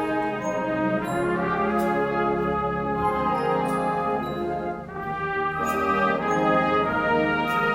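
High school symphonic wind band playing, with brass to the fore in sustained full chords. The sound drops briefly a little over halfway through before the full band comes back in.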